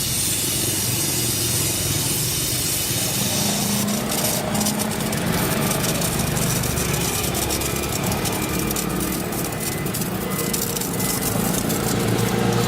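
Gas torch flame hissing steadily while the aluminium tubing of a refrigerator is being welded to seal a leak. A low, engine-like hum joins about three seconds in.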